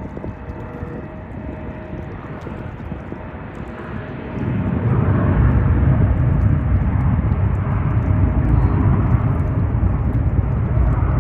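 Jet airliner engines running, the sound getting much louder about four seconds in and staying loud and mostly deep.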